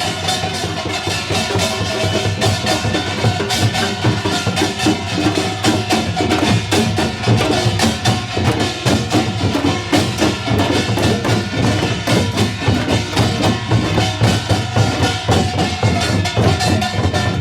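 Korean pungmul percussion group playing together: janggu hourglass drums and kkwaenggwari small gong struck in a dense, fast, even rhythm, with some steady ringing tones under the strokes.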